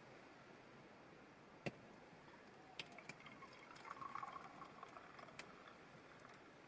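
Near silence, broken by a few sharp isolated clicks and a brief faint liquid trickle about four seconds in.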